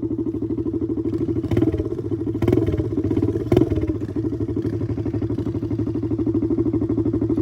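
Single-cylinder pit bike engine idling with a steady, fast putter, with a few short knocks between about one and a half and three and a half seconds in.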